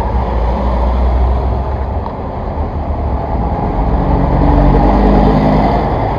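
A running road vehicle with steady low rumble and road noise; an engine tone comes up and it gets a little louder in the second half.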